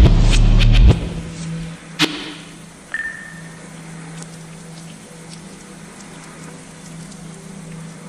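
A music track with heavy bass and drum hits cuts off about a second in, leaving a steady rain ambience. A sharp click comes about two seconds in and a brief high tone about three seconds in.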